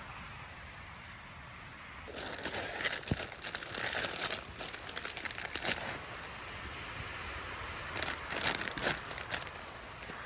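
Crinkly rustling of material being handled, in two bouts: one starting about two seconds in and lasting some four seconds, and a shorter one near the end. Under it is a steady hiss of storm wind.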